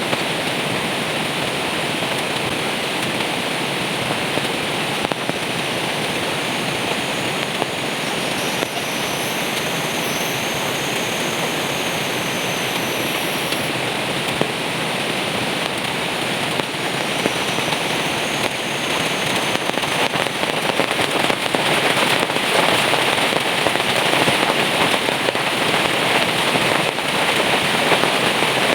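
Heavy rain pouring down steadily with dense pattering, growing heavier about twenty seconds in.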